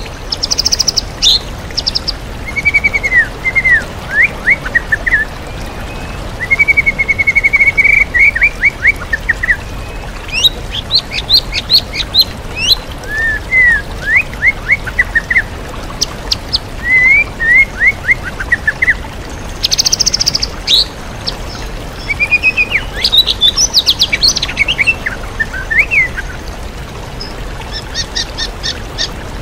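White-rumped shama (murai batu) singing a long, varied song of whistled slurs and fast chirping trills, filled with mimicked calls of other birds, over the steady rush of a waterfall.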